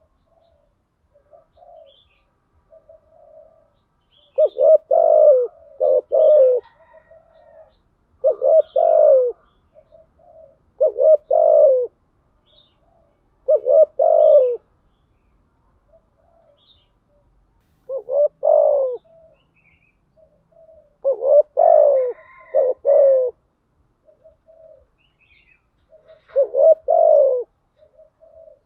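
Spotted dove cooing: a loud phrase of a few low, falling coos comes every two to five seconds, about seven times, with quieter single short coos in between. These are the dove's calling and cooing songs, used as a lure to draw other doves.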